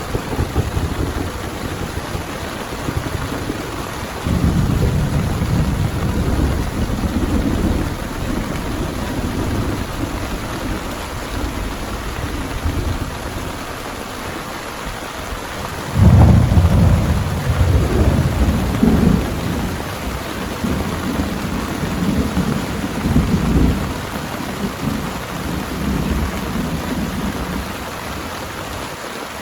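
Heavy rain falling steadily, with thunder rumbling low in long rolling waves; the loudest roll breaks in suddenly about halfway through and rumbles on for several seconds before fading near the end.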